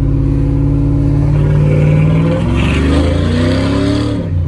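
A cammed 5.3-litre GM V8 exhausting through a Carven R series muffler pulls steadily, then accelerates, its note rising for about a second and a half before dropping sharply near the end.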